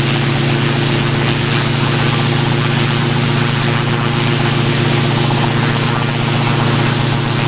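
A helicopter running steadily: an even engine hum under a fast, regular chop from the rotor, the chop growing plainer near the end.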